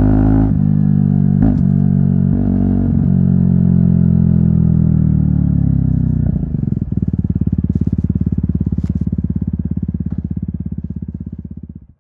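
Aprilia SX 125's single-cylinder four-stroke engine through an Arrow exhaust with the dB killer removed, running steadily with its note slowly falling as the revs drop, with a couple of sharp clicks early on. About seven seconds in it drops to a low, evenly pulsing idle that fades out at the end.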